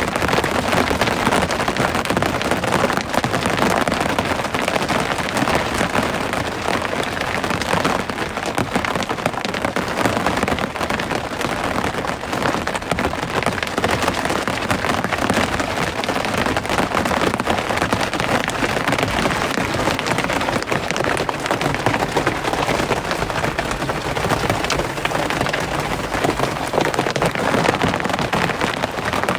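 Steady rain falling: a dense, even hiss thick with many close, individual drop impacts.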